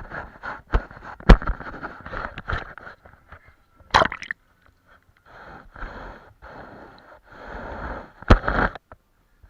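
Paintbrush scrubbing in short strokes on a large painting surface, with three sharp knocks: about a second in, about four seconds in, and near the end.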